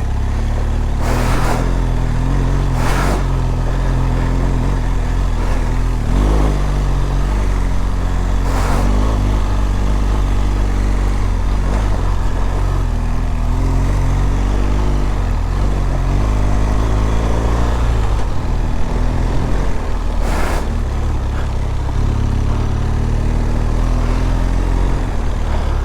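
BMW R1200GS boxer-twin engine running at low revs as the motorcycle rides slowly over a rough dirt road, heard from a helmet microphone. The engine note rises and falls with the throttle, with a few short knocks in between.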